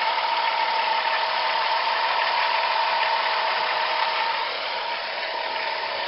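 Minivan's V6 engine idling steadily, with a steady whine from the accessory drive, on a freshly fitted alternator, drive belt and idler pulley; the owner hears it as quiet, the old seized alternator-pulley noise gone. It drops slightly in level about four and a half seconds in.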